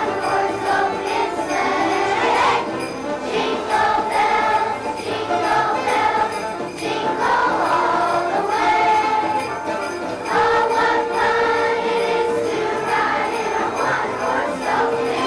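Children's choir singing a Christmas song with musical accompaniment and jingle bells.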